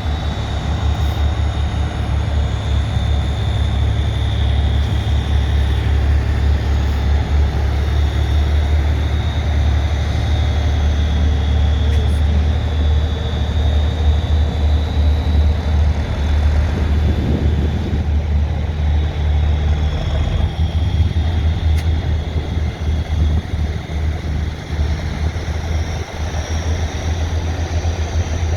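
Heavy engine of a trial truck running at a steady low rumble, rising and falling a little in loudness.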